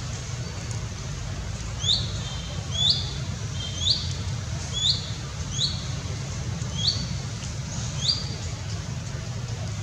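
A bird repeating a short, sharp rising chirp about once a second, seven times, over a steady low rumble.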